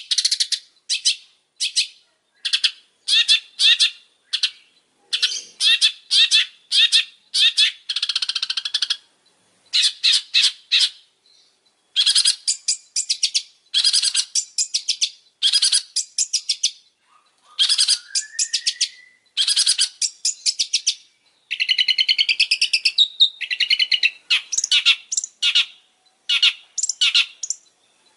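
Long-tailed shrike (pentet) singing vigorously: loud, rapid phrases of harsh, stuttering chatter, each about a second long with short pauses between, with a rising whistled sweep partway through and a longer, more varied warbling run near the end.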